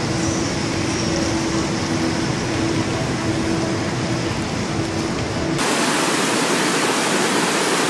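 Rushing floodwater, a steady wash of noise. For the first five and a half seconds it carries a low rumble and a steady hum, then it cuts suddenly to a brighter, hissier rush of water.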